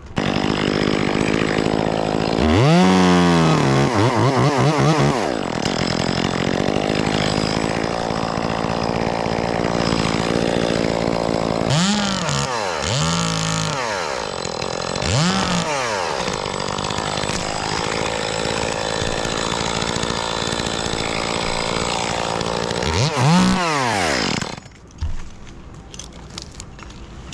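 Gas chainsaw running and cutting into a fir limb. It revs up and down in several groups of quick rises and falls, then cuts off near the end.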